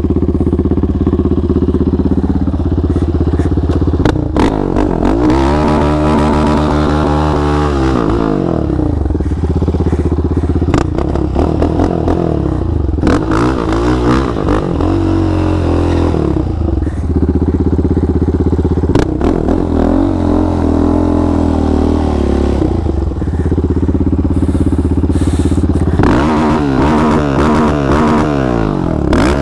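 Yamaha Raptor 700 quad's big-bore 734 single-cylinder engine with a Monster exhaust idling, revved up and let back down about four times.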